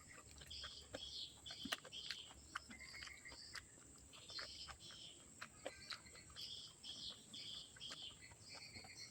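Close-up mouth sounds of someone eating: wet chewing and lip smacks with many small clicks, coming in short irregular runs, over a faint steady high whine.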